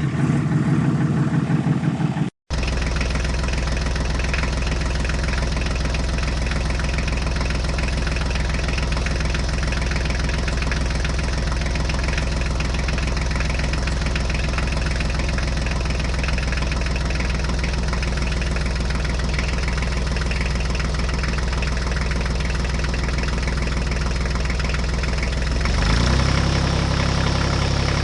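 Small engine of a homemade mini tractor idling steadily, its tone shifting slightly near the end.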